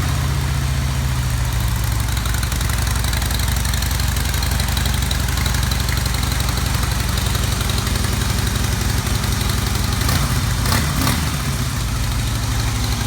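2016 Harley-Davidson Breakout's V-twin idling steadily through its stock exhaust and stock air cleaner, a restrained factory sound that is "definitely not a Harley". A few brief clicks come about ten seconds in.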